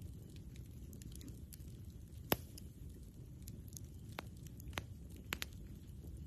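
Campfire burning, with sharp wood pops and crackles scattered over a low steady rumble; the loudest pop comes a little over two seconds in, with a few more later.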